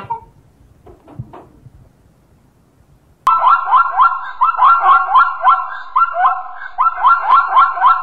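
A zebra calling: a fast, loud string of repeated high barking yelps that starts abruptly about three seconds in, after a short call right at the start and a few faint sounds.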